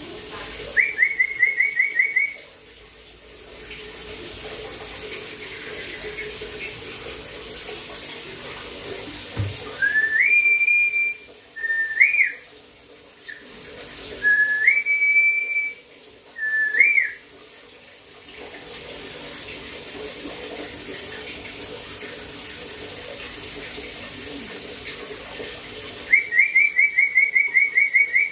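Clear whistling around one pitch. It opens with a quick trill of repeated notes, then gives four separate whistles in the middle that each step up in pitch, and ends with another quick trill near the end, over a steady background hiss.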